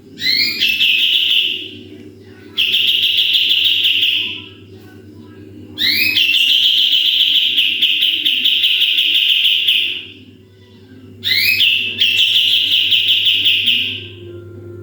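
Kapas tembak songbird singing its 'tembakan' song: four long, high, buzzy whistled notes, each opening with a quick run of rising chirps and then held steady. The third note is the longest, about four seconds. A steady low hum runs underneath.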